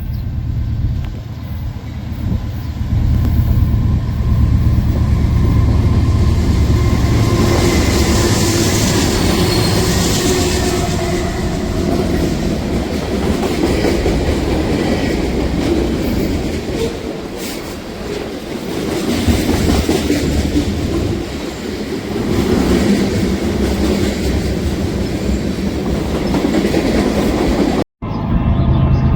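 A train passing close by: a loud, steady rumble of wheels on the rails with heavy low-pitched engine sound and faint high steady tones. The sound drops out for an instant near the end.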